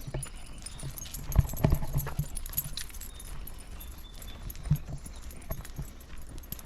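Footsteps on a woodland trail: a run of irregular thumps and scuffs, heaviest in the first two seconds and again briefly about five seconds in.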